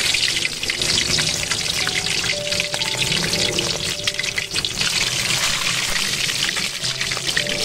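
Raw chicken drumsticks frying in hot oil in an aluminium wok: a dense, steady sizzle of many tiny crackling pops as the oil bubbles up around the meat.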